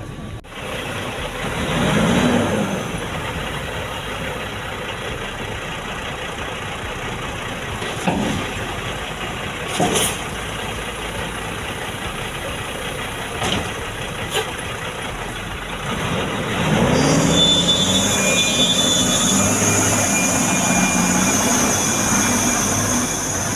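Heavy diesel road-construction machinery running steadily, with the engine revving up and down about two seconds in and again from about seventeen seconds on. A few sharp clanks come in the middle.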